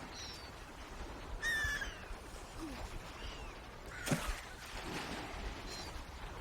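Birds calling: several short, high calls and one louder, ringing call about a second and a half in, over a steady low rumble. A sharp sudden sound, like a knock or splash, comes about four seconds in.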